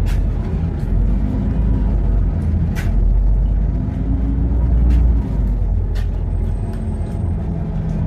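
Inside a LiAZ 5292.65 city bus on the move: steady engine drone and road rumble, with the engine note rising and then falling about halfway through, and a few sharp knocks and rattles.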